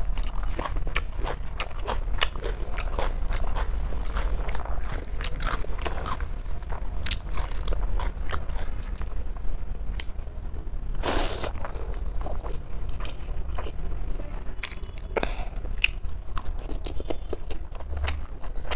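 Close-miked eating of rice with mutton-head curry and chicken gravy: steady chewing with many small clicks of mouth and teeth. One louder mouth noise lasting about half a second comes about eleven seconds in. A steady low hum runs underneath.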